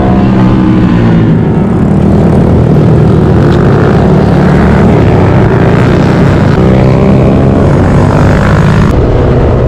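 Small single-cylinder engine of a Honda Grom mini motorcycle running at riding speed, heard from on the bike under heavy wind rush over the microphone. The engine note falls in the first second, then rises for a couple of seconds near the end as the bike accelerates, before the sound changes abruptly.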